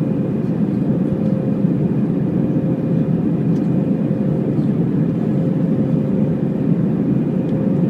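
Steady cabin noise inside an Airbus A319 airliner: a dense low roar from the jet engines and airflow, with a faint steady whine on top.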